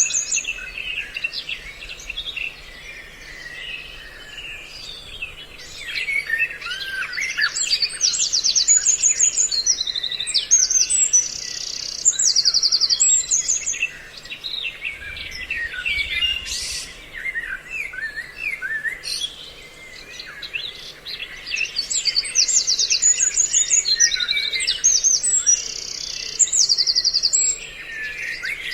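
A mix of songbird calls recorded as a trapping lure: many chirps and whistles with bursts of fast, high, rattling trills, coming in busy phrases with short lulls between them. A faint steady hum runs underneath.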